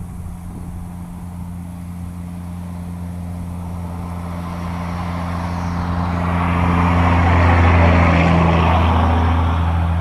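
A motor vehicle's engine running with a steady low hum. About halfway through, a rushing noise builds, peaks a couple of seconds later and eases off again.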